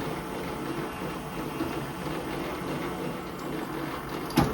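Small lathe running while a small pilot drill cuts a hole in the workpiece, a steady even machining noise. A single sharp knock comes near the end.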